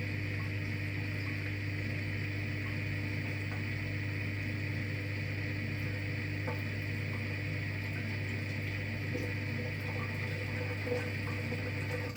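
V-Zug Unimatic SL washing machine running a 40 °C wash, a steady low hum with water sounds, cutting off suddenly at the very end.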